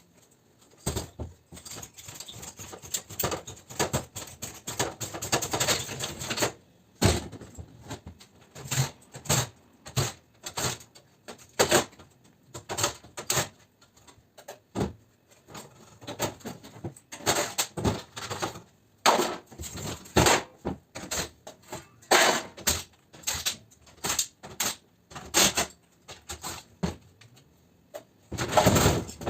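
Irregular knocks and clanks of hand tools working on the metal of an air conditioner unit being stripped for scrap. There are short bursts of rapid clatter and brief pauses between them.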